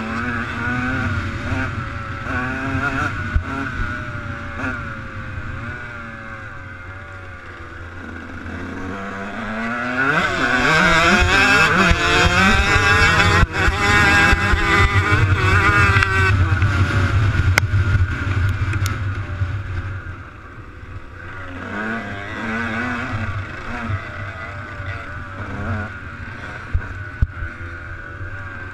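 Motocross bike engines revving. One climbs in pitch and grows loud from about eight seconds in, stays loudest through the middle, then drops back and quietens after about twenty seconds.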